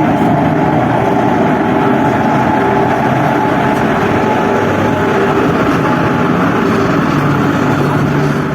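A train rolling slowly into a station, a loud steady rumble of wheels on rail with a constant hum over it.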